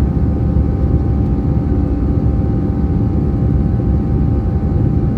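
Airbus A321's CFM56 jet engines running steadily in flight, heard from inside the cabin: a constant low rumble with a thin steady tone above it.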